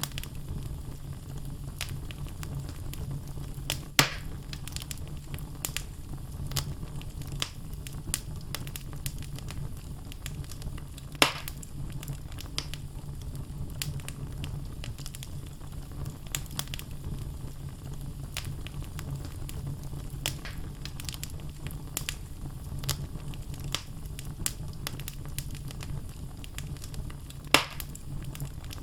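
Wood logs burning in a fireplace: a steady low rumble of the flames with frequent crackles. Three louder pops come about 4 s in, about 11 s in and near the end.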